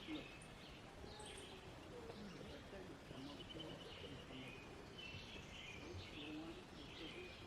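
Wild birds chirping and twittering, with a fast trill about three seconds in, over a faint steady background hiss.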